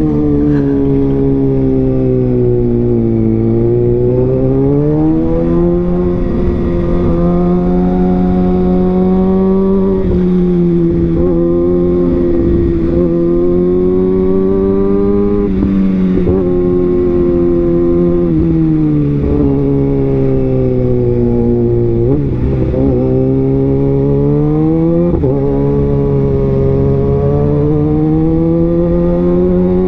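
Kawasaki Ninja ZX-6R inline-four engine and exhaust under way, its note climbing and falling again and again as the throttle is rolled on and off, with several sudden drops in pitch.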